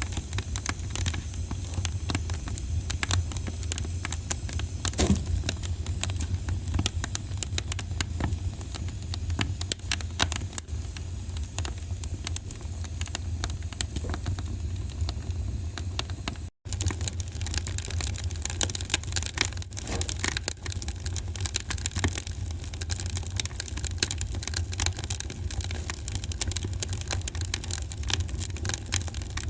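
Wood fire crackling, with frequent small pops and snaps over a steady low rumble. The sound cuts out for an instant a little past halfway, then carries on.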